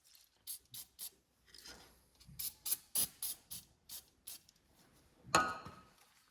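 Short, irregular metal scrapes and clicks of tools being handled at an engine cylinder, with one louder, longer scrape about five seconds in.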